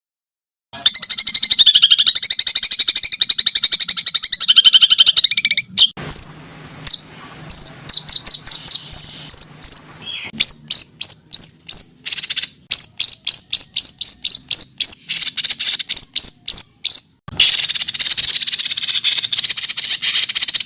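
Songbird song from a masteran training recording: a fast buzzy trill, then a long run of rapid, sharp, high chip notes at about four a second, then another dense buzzy trill, with abrupt edited starts and stops.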